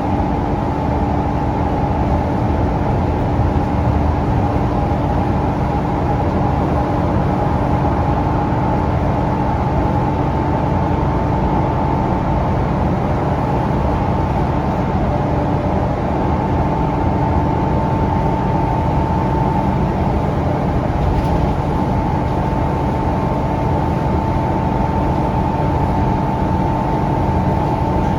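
Interior sound of a Scania K360UA articulated city bus cruising at a steady speed, heard from inside the cabin: its Scania DC9 engine drones under steady road noise, with an even high whine running over it.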